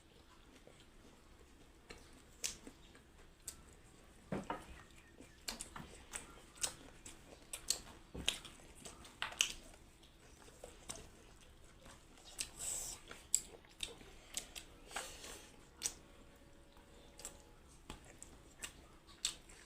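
A person chewing and eating close to the microphone: irregular wet mouth smacks and clicks, one or two a second.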